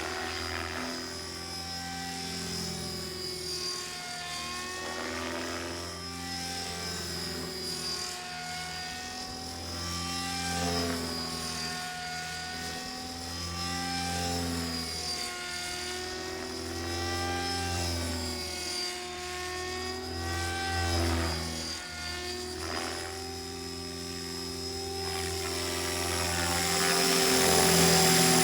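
Radio-controlled model helicopter in flight: rotor hum under a thin high motor whine, the pitch dipping and rising every few seconds as it is flown. It is louder near the end.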